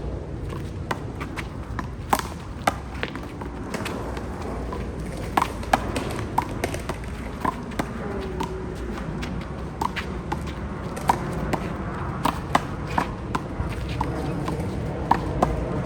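Handball rally: the rubber ball smacks sharply and irregularly against the wall and the players' hands, about every half second, over steady outdoor background noise.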